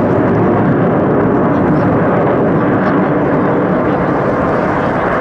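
Loud, steady jet noise from Aermacchi MB-339 PAN jet trainers flying over, their single Viper turbojets dominating, easing off slightly near the end.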